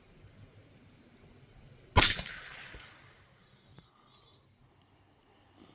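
A single .22 LR rifle shot about two seconds in: one sharp crack with a short tail of echo.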